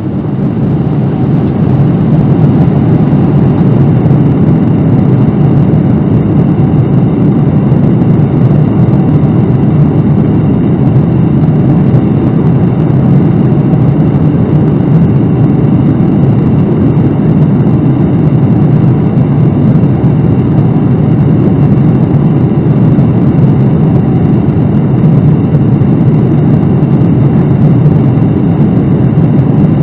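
Steady in-flight cabin noise of a Boeing 787-9 with Rolls-Royce Trent 1000 engines: a loud, even low rumble of engines and airflow, swelling up over the first couple of seconds.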